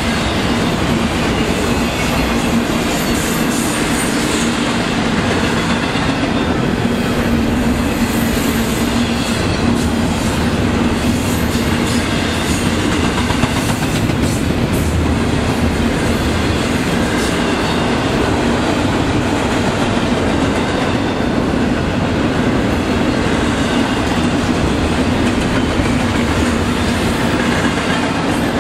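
Intermodal freight train rolling past at speed: a steady loud rumble of steel wheels on the rails under trailer and double-stack container cars, with a steady low hum and some faint clicking.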